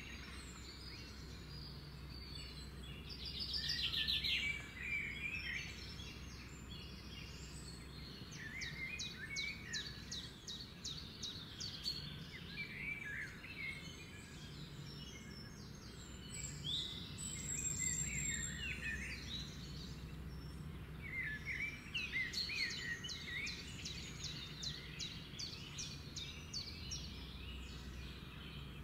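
Several songbirds singing and calling at once: overlapping chirps, short whistled phrases and rapid trills, busiest about three to four seconds in, around ten seconds in, and again from about twenty-two seconds in, over a steady low hum.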